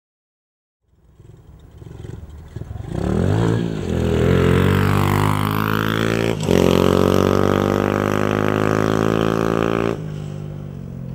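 Small 110cc single-cylinder four-stroke pit bike engine revving. It fades in about a second in and picks up revs around three seconds in, with a brief dip about six and a half seconds in. It then holds steady at high revs and drops off just before ten seconds.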